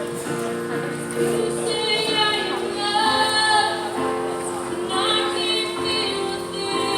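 A woman singing a worship song over sustained instrumental accompaniment, with long held notes.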